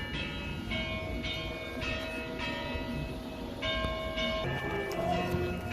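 Bells struck one after another, about two notes a second, each note ringing on over a low steady rumble.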